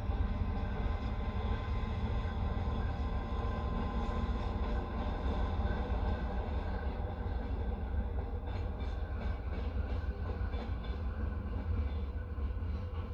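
Passenger train carriage in motion, heard from inside: a steady rumble of the wheels on the rails, with faint clicks of the wheels over the track in the second half.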